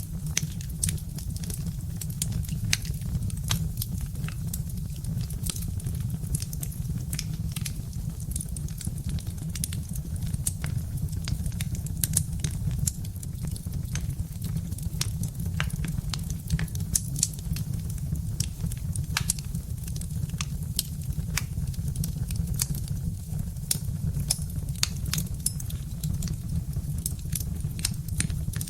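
Birch-wood fire crackling in a fireplace: a dense run of small sharp snaps and pops, several a second, over a steady low rumble of the burning.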